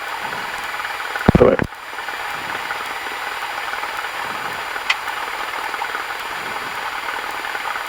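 Cessna 172's engine idling steadily, a constant even hum with no change in pitch, while the aircraft holds in position on the runway before takeoff.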